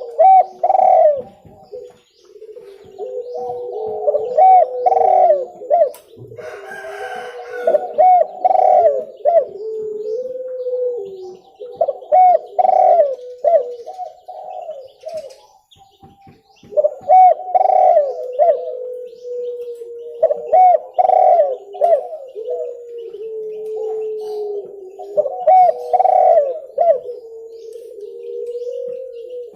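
Spotted dove (tekukur) cooing, a clear call repeated in phrases every few seconds, each phrase a run of hooked notes over a lower drawn-out coo.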